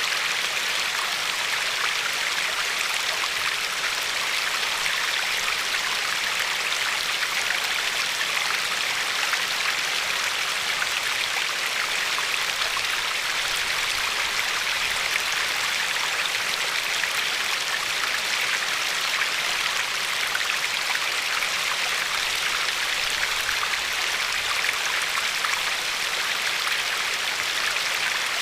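River water flowing over a pebbly shore: a steady rush of water, mostly high hiss with little low rumble, unchanging throughout.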